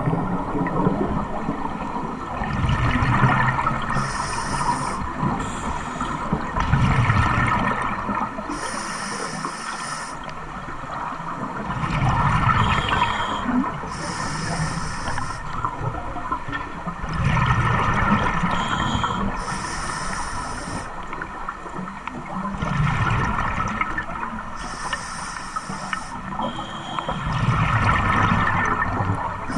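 An engine running in a slow, even cycle: about every five seconds comes a swell of sound with a short hiss on top, over a continuous churning background.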